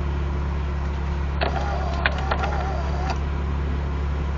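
Steady low hum and rumble heard from inside a car while a long freight train passes. A few sharp clicks and a short wavering tone come in around the middle.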